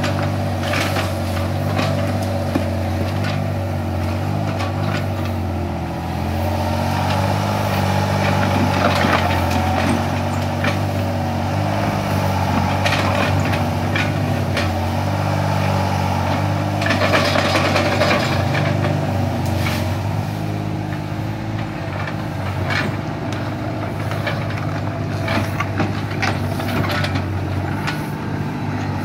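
Small excavator working: its diesel engine runs steadily under hydraulic load, the note shifting a little as it works, with frequent short knocks and clatters throughout.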